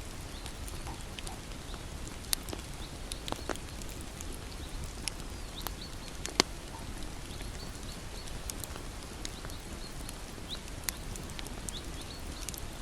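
Wood bonfire burning: a steady low rush with scattered sharp crackles and pops, the loudest about six seconds in.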